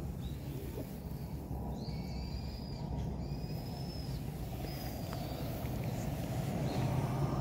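A bird gives three thin, high, level whistled calls, each about half a second to a second long, over a steady low rumbling background.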